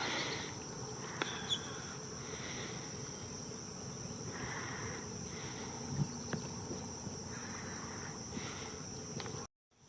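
Steady high-pitched insect chorus of buzzing and trilling, with faint outdoor background noise. The sound drops out completely for about half a second near the end.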